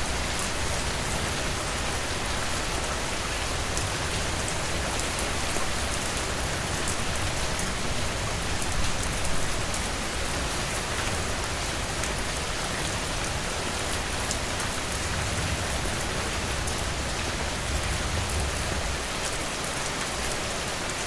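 Steady heavy rain falling, a dense even hiss with scattered individual drop ticks and a low rumble underneath.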